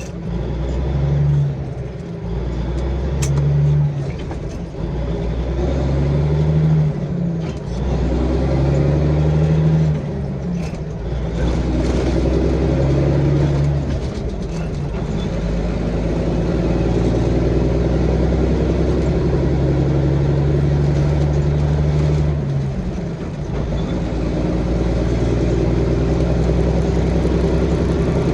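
Straight-piped Caterpillar 3406B diesel in a Freightliner FLD pulling hard up through the gears. The engine note climbs, then drops at each upshift, several times over, and settles into a steady, slightly drony exhaust at highway speed.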